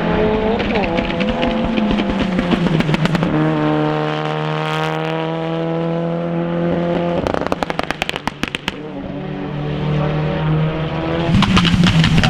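Mitsubishi Lancer Evo IX race car's turbocharged four-cylinder engine running hard on track, its pitch holding and then stepping up. About seven seconds in the throttle comes off and the exhaust crackles and pops for a second or two, then the engine pulls again, loudest near the end.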